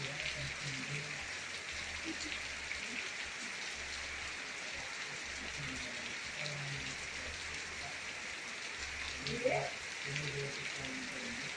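Steady rain falling, an even hiss of drops with scattered light taps, and a brief louder sound about nine seconds in.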